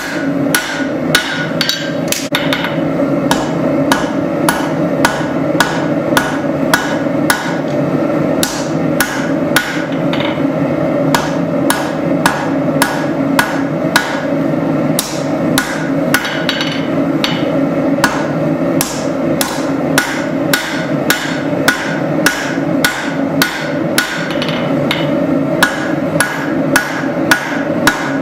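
Hammer blows on hot spring steel being forged into a blade on an anvil, a steady run of strikes about two a second over a constant rushing background.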